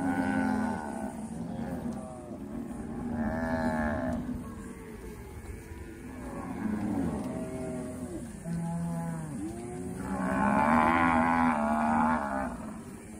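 A herd of Brahman-type cattle mooing, many calls overlapping one another. The loudest, highest calls come about ten to twelve seconds in.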